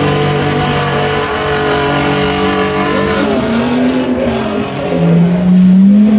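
Several race truck engines running hard at once, their notes overlapping. Near the end one engine rises in pitch and becomes the loudest as it revs up close by.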